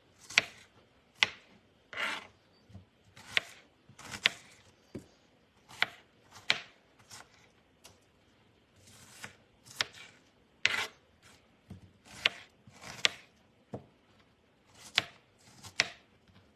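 Knife chopping an onion on a cutting board: sharp, irregular chops, roughly one a second.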